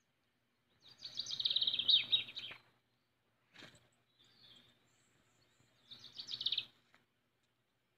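Bird chirping played from a phone video. It comes in two bursts of quick, rapidly repeated high notes, a longer one about a second in and a shorter one near the end, with a brief faint noise between them.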